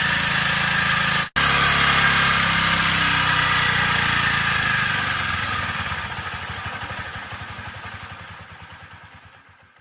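Motorcycle engine running steadily. The sound cuts out for an instant about a second in, then fades away over the last few seconds.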